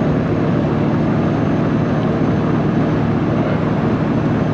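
Straight-piped Peterbilt 389 diesel truck running steadily under way, heard from inside the cab: an even, unbroken engine and exhaust drone with a strong low hum.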